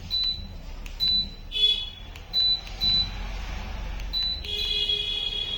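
Short high electronic beeps from a remote-controlled ceiling fan-chandelier, one with each button press as its light is switched through its colour modes, with a longer beep near the end over a faint steady hum.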